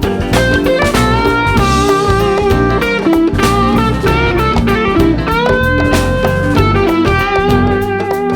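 Blues-rock band music with no singing: an electric guitar plays a lead line with bent notes over bass and drums.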